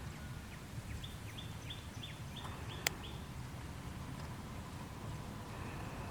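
A bird calling: a run of about seven short, high notes at roughly three a second, over a steady low background rumble. A single sharp click comes about three seconds in.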